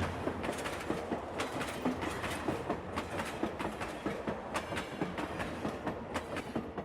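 Model freight train rolling past, its wheels clicking over the rail joints several times a second above a steady running rumble.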